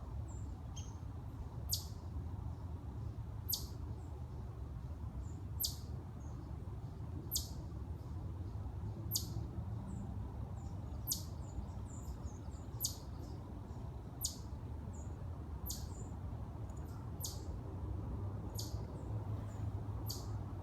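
An animal's short, sharp, high call repeated about a dozen times, roughly every one and a half to two seconds, with fainter chirps in between, over a steady low rumble.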